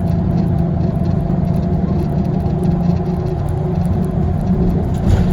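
Scania CL94UB OmniLink city bus with a ZF automatic gearbox, heard from inside while driving. The engine hums steadily, and its note dips and rises again about three and a half seconds in.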